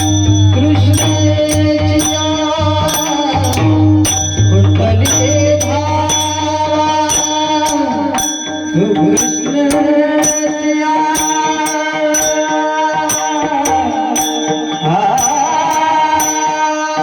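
Devotional bhajan singing: a solo voice sings long, sliding melodic phrases over a steady held drone, with small hand cymbals clicking in a regular beat. A low drum plays at the start and drops out about six seconds in, and the voice comes in at about the same time.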